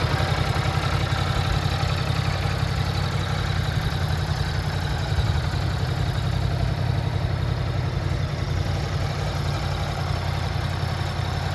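Ducati Multistrada 950 S's 937 cc L-twin engine idling steadily, with a fast, even low pulse.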